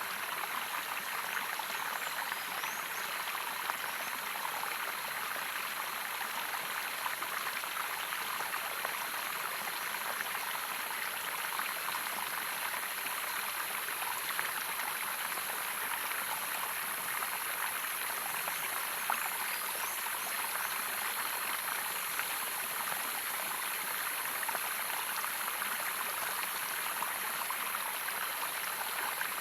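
Running water of a small waterfall or stream: steady splashing and rushing that does not change. A steady high-pitched whine sits above it.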